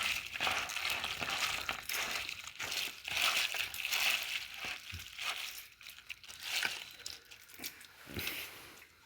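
Irregular crinkling and rustling, with a couple of soft knocks.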